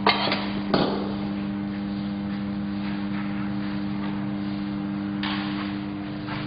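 Arc welding set humming steadily with an even hiss, after two sharp metal knocks near the start.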